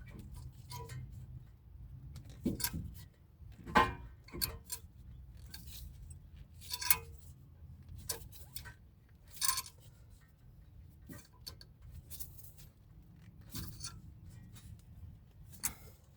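Scattered light metal clinks and clicks, about nine over the stretch, from hand tools and a C-clamp being handled while a disc-brake caliper piston is pressed back in. A low, steady hum runs underneath.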